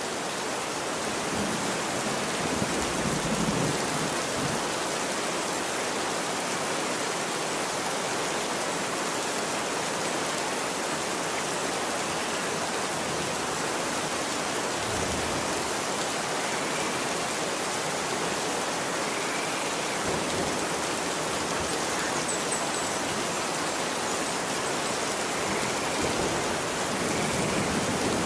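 Steady rain falling on a street: a dense, even hiss with a few faint low rumbles underneath.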